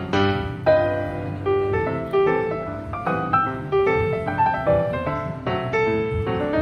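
Background music: a piano playing a gentle melody with chords, the notes struck and dying away at an unhurried pace.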